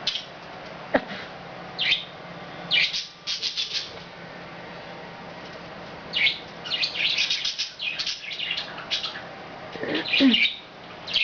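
Pet budgerigars chirping and chattering in quick bursts of short high chirps, in several clusters with brief gaps between them.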